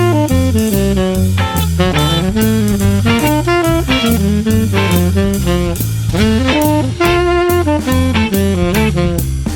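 Jazz music: a saxophone plays a melody over a drum kit and a low, stepping bass line.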